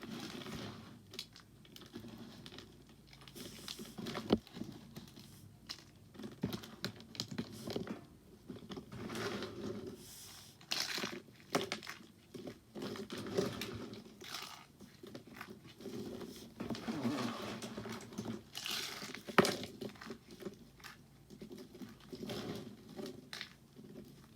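Soap crunching and crumbling as it is worked: an irregular run of crisp crunches and scrapes, with two sharper snaps about four seconds in and near nineteen seconds.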